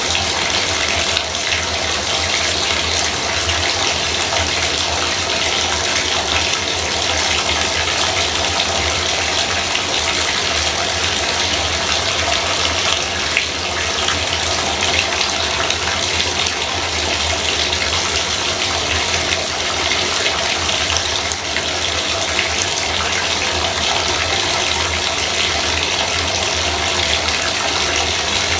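Bathtub faucet running steadily, water pouring into the tub.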